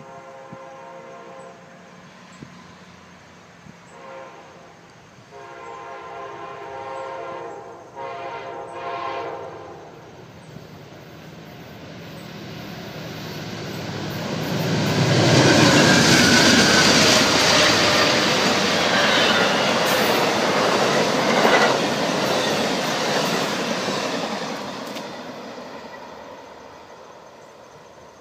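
Amtrak passenger train led by a GE Genesis diesel locomotive sounding its horn in long blasts as it approaches a grade crossing, three times. It then passes at speed, a loud rumbling rush with wheel clatter for several seconds that fades away as the train recedes.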